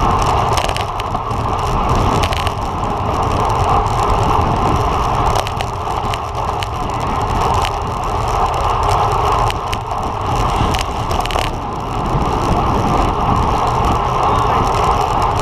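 Steady rushing wind and road noise from a road bike ridden at race speed, heard through the rider's camera microphone, with a few sharp clicks.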